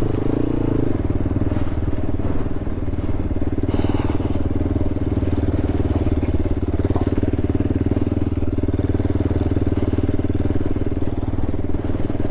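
Honda TRX sport quad's engine running at a steady, nearly constant pitch, holding an even speed, with a few faint knocks over the ride.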